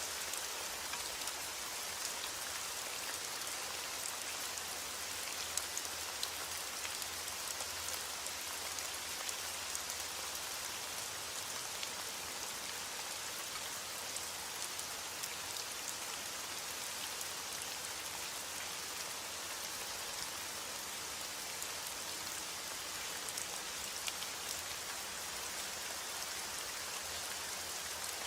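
Steady rain falling: a continuous hiss with the fine patter of individual drops.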